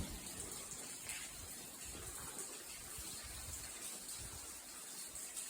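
Faint, steady trickle of water running in an old brick railway tunnel, where water is leaking in through the walls.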